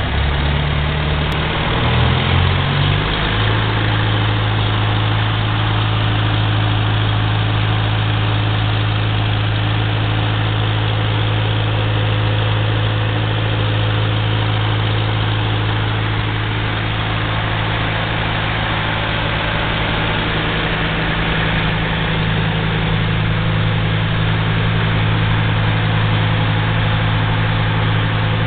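1941 Farmall B tractor's four-cylinder engine idling steadily. Its speed shifts briefly two to three seconds in, then holds even.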